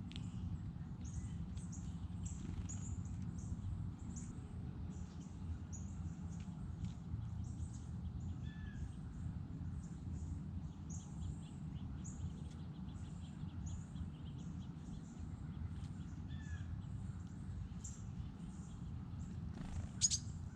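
Small birds chirping repeatedly, short high notes coming throughout over a steady low rumble. A single sharp click about twenty seconds in.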